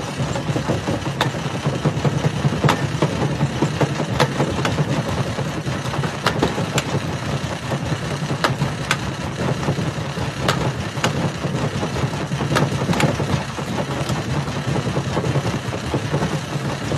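Jaw-type rock crusher running with a steady heavy drone, with frequent irregular sharp cracks and clatter of stones being broken.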